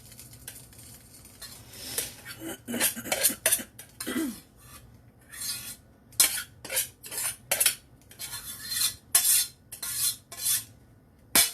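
A metal spoon scraping and tapping against cookware in a series of short strokes, starting about two seconds in, as rice is spooned out and spread over the casserole.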